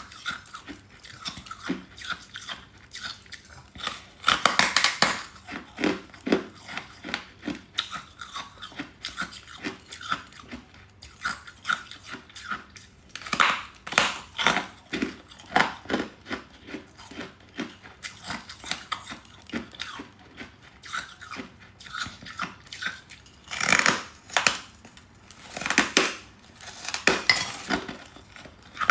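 Close-up crunching of hard freezer frost being bitten and chewed: a steady run of short, crisp crunches, with louder bites about four, thirteen and twenty-four seconds in.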